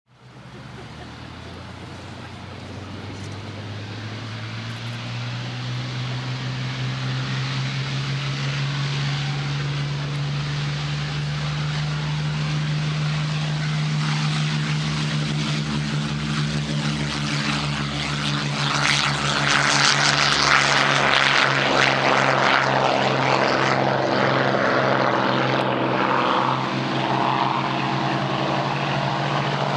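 Piston engines of wartime propeller fighters, a Supermarine Spitfire and a Hawker Hurricane, running steadily and growing louder for about twenty seconds, loudest about two-thirds of the way through.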